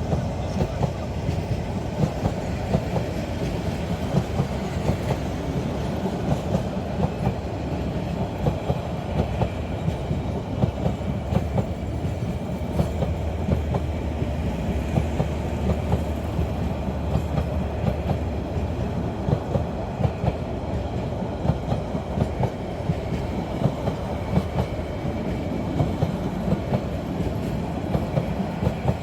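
Passenger train carriages rolling along the track with a steady low rumble and repeated wheel clacks over the rail joints.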